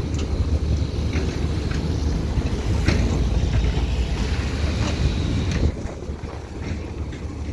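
Hydraulic excavator's diesel engine working with a steady low rumble, with scattered short clanks, and turning quieter about three quarters of the way through.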